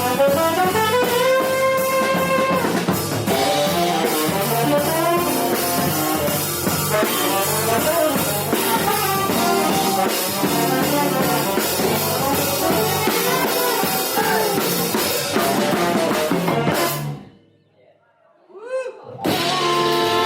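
Live jazz ensemble of tenor saxophone, trombone, electric guitar, piano, electric bass and drum kit playing together, with a held horn note rising near the start. About three-quarters of the way through, the whole band stops dead for about two seconds, a faint sliding note sounds in the gap, and then everyone comes back in together.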